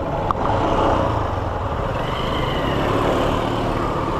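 Small motorcycle engine running steadily, with a short click about a third of a second in.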